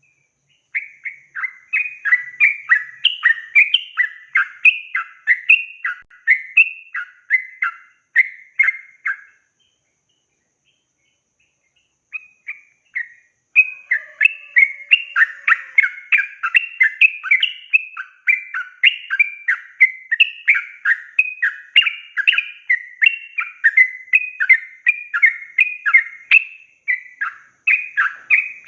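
Yellow-vented bulbul (trucukan) singing a long rapid run of short, bubbly whistled notes, about two to three a second. The song stops for about three seconds a little before the middle, then starts again and keeps going.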